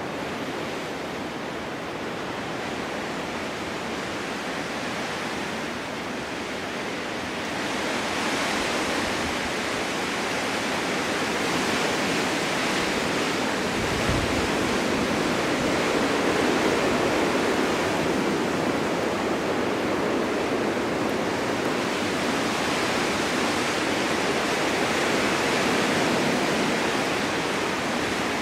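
Snowstorm wind blowing as a steady rushing noise. It grows stronger about a quarter of the way in, then rises and falls gently in gusts.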